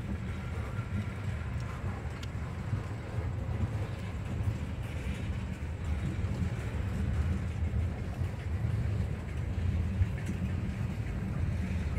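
Freight train of tank cars and boxcars rolling past, its steel wheels giving a steady low rumble on the rails with light clatter. There is one sharper knock about ten seconds in.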